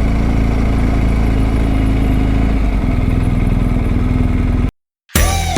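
Motorcycle engine running steadily while riding, its note shifting about two and a half seconds in. It cuts off suddenly near the end and music begins.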